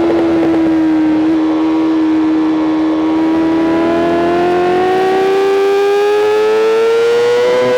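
BMW M 1000 RR's inline-four engine at high revs, pulling through a single gear. Its pitch holds nearly level for the first few seconds, then climbs steadily.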